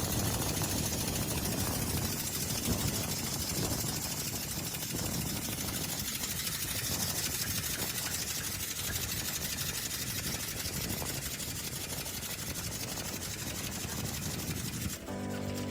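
Compressed-air motor on a bicycle running steadily: a rapid, even chugging with a strong hiss of air over it. It stops near the end.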